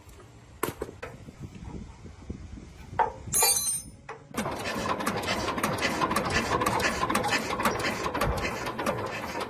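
A few clicks and knocks, a short high hiss about three and a half seconds in, then a machine starts up about four and a half seconds in and keeps running steadily with a busy rattle.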